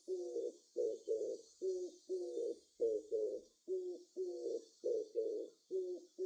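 Dove cooing over and over, low hooting notes about twice a second, some in close pairs, with a steady high hiss behind.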